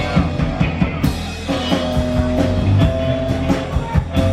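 Live rock band playing an instrumental stretch between vocal lines: electric guitar and bass over a steady drum beat, with a crash or cymbal hit about a second in.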